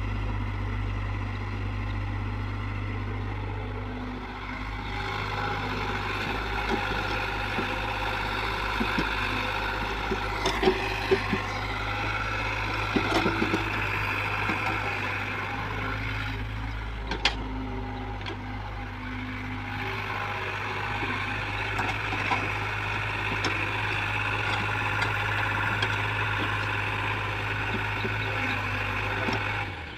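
Heavy diesel earthmoving machinery running steadily, with a swelling and easing mid-range whine and scattered sharp knocks and clanks. The sound drops off abruptly near the end.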